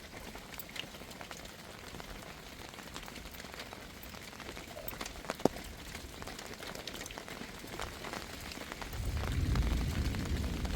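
Steady rain falling, with scattered drop taps and one sharper tap about five seconds in. A low rumble builds near the end.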